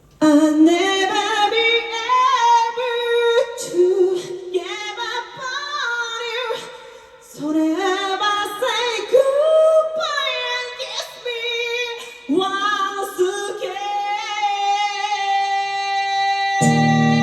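A woman singing solo and unaccompanied, a slow melody with sliding notes and pauses between phrases. Near the end a strummed guitar chord comes in under her held note.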